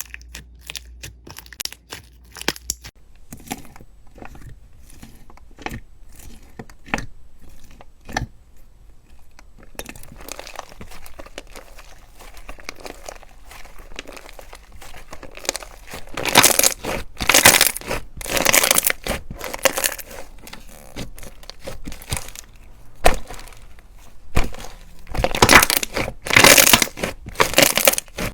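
Slime being pressed and squished by hand, making a string of small sharp crackles and pops. The crackles are sparse at first, then grow denser and louder in the second half.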